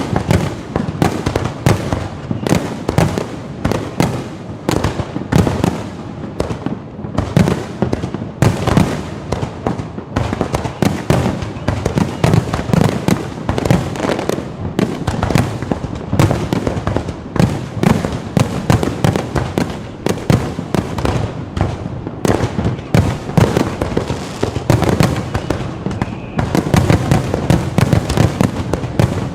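Fireworks going off in a rapid, continuous barrage of booms and crackles, several bursts a second.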